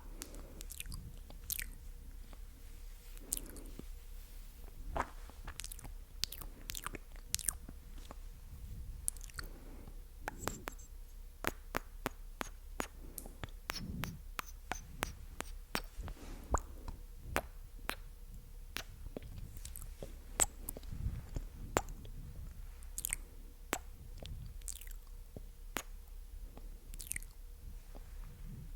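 Close-miked ASMR mouth sounds: irregular wet, sticky clicks and smacks of the lips and tongue.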